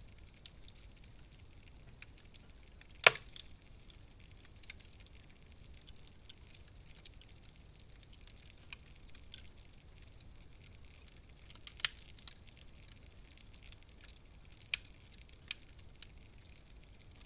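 Wood fire in a fireplace crackling: a faint hiss scattered with small ticks and a few sharp pops, the loudest about three seconds in and others near the end.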